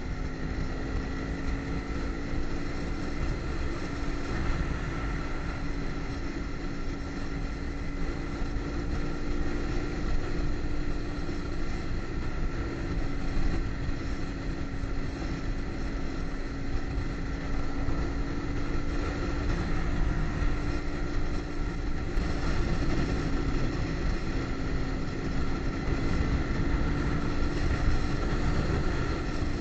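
Kawasaki Ninja sportbike engine running at a steady cruising pitch, under a heavy rush of wind noise from riding. The engine note briefly shifts about two-thirds of the way through, then settles back to a steady pitch.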